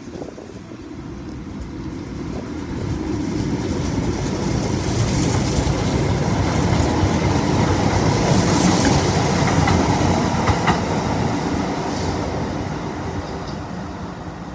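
A two-car Tyne and Wear Metro train of coupled Metrocars running past on the track, wheels clicking over the rail joints. The sound grows louder to a peak about eight or nine seconds in, then fades away.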